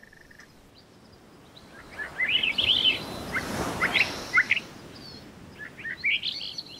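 Small birds chirping in quick, short rising and falling calls, in two bouts, the first about two seconds in and the second near the end. A soft hiss swells and fades under the calls in the middle.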